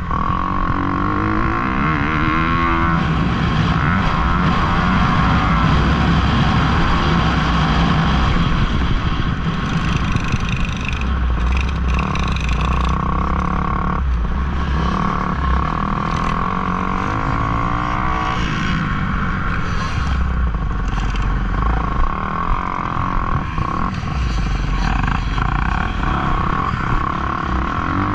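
Motocross dirt bike engines running hard, their pitch repeatedly climbing and dropping as the riders work the throttle and shift through the gears.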